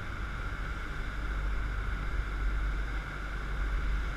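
Steady rushing noise of a jet boat under way: wind buffeting the camera microphone over the engine and water.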